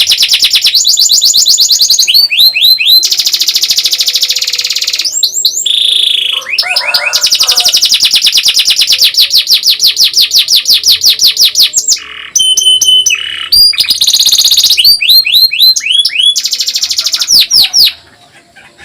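Canary singing a long, fast song of rapid trills and rolls: runs of quickly repeated high notes that switch to a new phrase every second or two, with a short break near the end.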